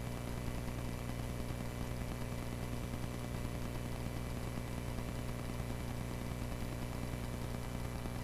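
Cessna 140A's piston engine and propeller droning steadily in flight, heard through the cockpit audio feed between radio calls.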